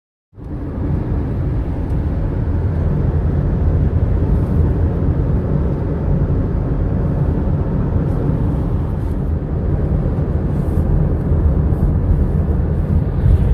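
Steady road and engine rumble of a car driving along a highway, heard from inside the cabin; it starts abruptly just after the beginning.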